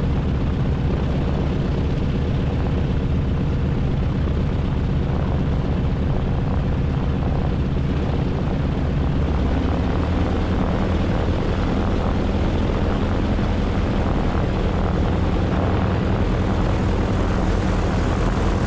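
Twin radial engines of a Beech 18 running loud and steady with a deep propeller drone. The pitch shifts slightly about halfway through.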